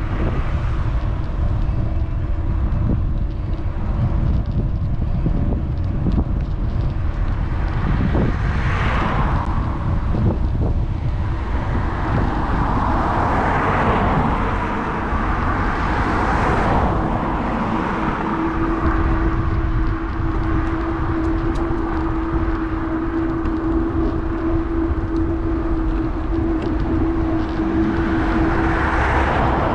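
Wind rumbling on the microphone of an action camera carried on a moving electric bike, with road traffic passing several times. A steady hum joins about two-thirds of the way through.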